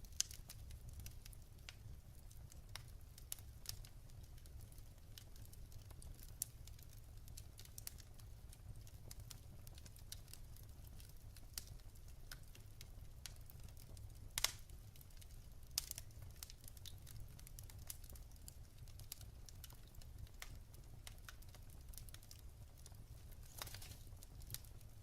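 Wood fire in a fireplace crackling faintly: scattered small snaps and pops, with one louder pop about halfway through and a few more close together near the end, over a low steady rumble.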